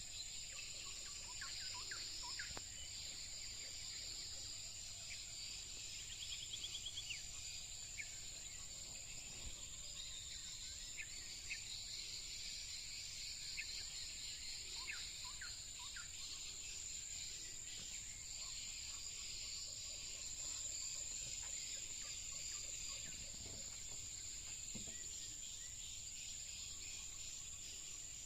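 Scattered short, falling whistles from whistling ducks, heard over a steady, high-pitched insect drone.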